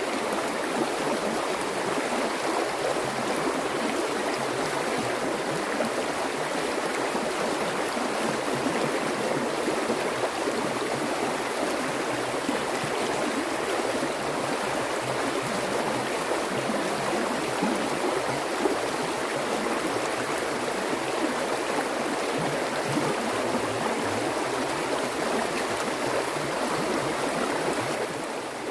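Water flowing steadily in a stream, an even unbroken splashing, dipping briefly just before the end.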